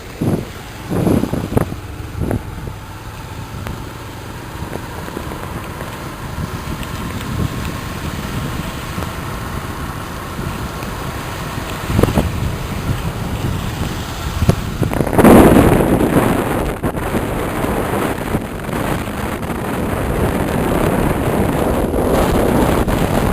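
Motorcycle running along a road in the rain, with wind buffeting the microphone. A few knocks come in the first couple of seconds, and a louder surge of noise comes about fifteen seconds in.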